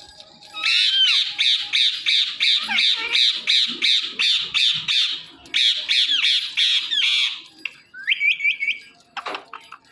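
Ringneck parrot squawking in a fast, harsh run of about three calls a second for several seconds, with a short break partway, then a few short rising chirps near the end.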